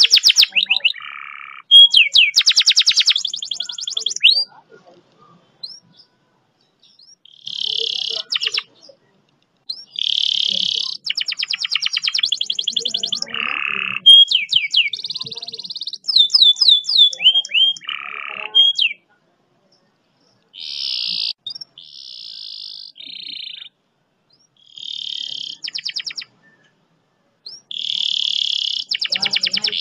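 Domestic canary singing a long, fast rolling song: rapid rattling trills and runs of quick sweeping whistled notes, in phrases broken by short pauses.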